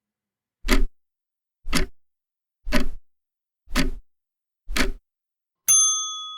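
Countdown timer sound effect: five clock ticks about a second apart, then a single bell ding near the end that rings on and fades. It marks the time allowed for answering a trivia question.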